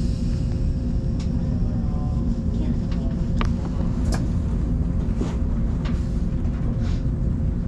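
Odakyu Line commuter train running, heard from inside the car: a steady low rumble of wheels on rails with a faint constant hum and scattered clicks and knocks.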